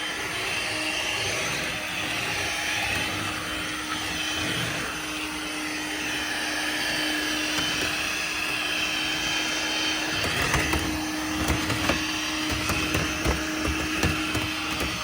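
Corded Dirt Devil robot vacuum running, its motor a steady hum with one held tone over a hiss and its brush spinning. A few short knocks and clicks come in the last few seconds.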